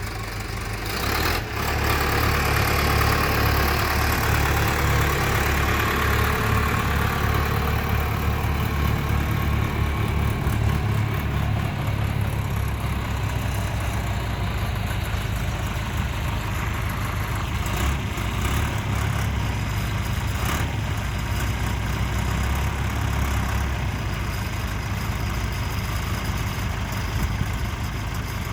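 John Deere 2640 tractor's diesel engine running steadily at idle, a little louder and busier for the first several seconds.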